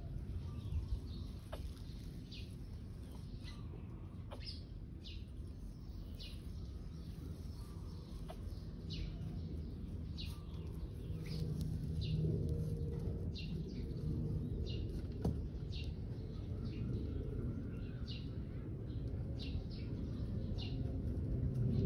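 A bird calling repeatedly in short, high, falling chirps, about one a second, over a steady low rumble.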